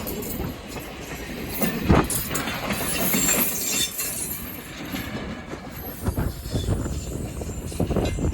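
A train running past on the rails, its wheels clattering, with a run of rhythmic clacks from the wheels over the rail joints toward the end.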